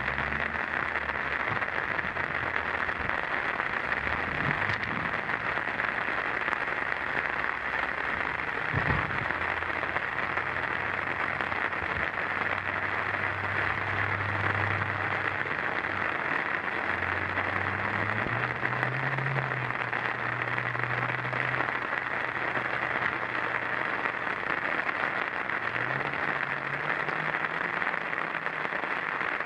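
Small hail pelting down onto roofs and the ground, a steady dense patter that does not let up.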